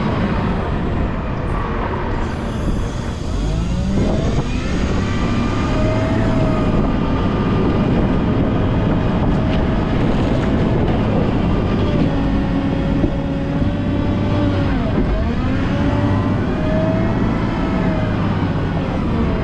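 Diesel engine of a Volvo L90H wheel loader running under load while plowing snow, its engine speed dropping and climbing back up twice.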